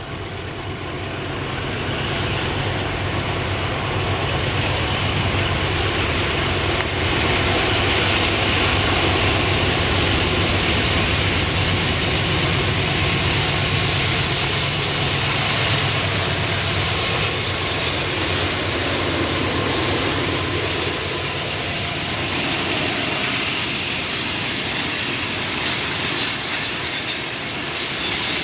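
Norfolk Southern diesel freight locomotives running as they approach and pass, the engine drone growing louder over the first several seconds. About two-thirds through it gives way to the steady rolling rumble and clatter of tank cars going by.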